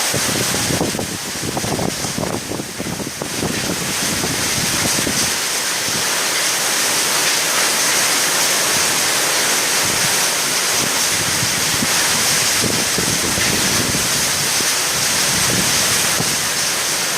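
Storm wind and rain making a loud, steady rush, with gusts buffeting the microphone; it eases slightly for a couple of seconds near the start.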